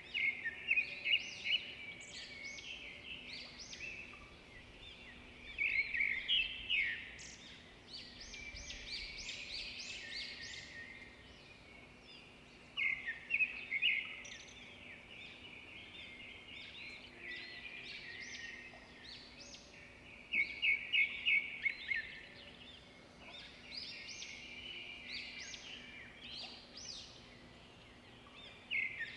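Birds chirping, with a burst of rapid, louder notes every several seconds over a faint steady hum.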